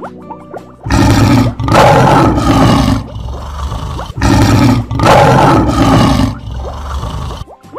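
A lion's roar sound effect, played twice, each roar loud and lasting two to three seconds.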